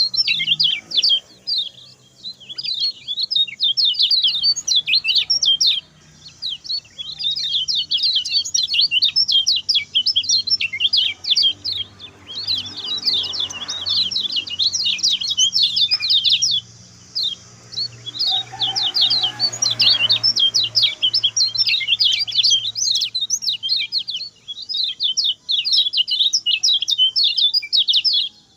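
Kecial kuning songbird singing its fast, short song: high, rapid chirps run together in phrases of several seconds with brief pauses between them.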